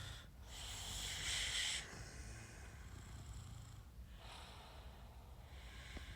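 A man breathing close to the microphone: two long, noisy breaths, the first louder than the second, over a faint low hum.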